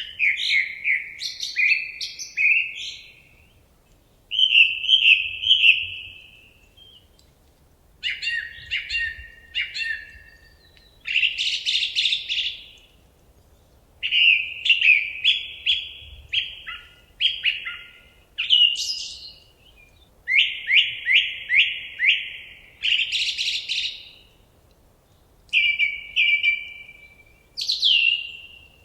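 Common nightingale singing: a string of short, varied phrases of repeated whistled and trilled notes, each separated by a brief pause.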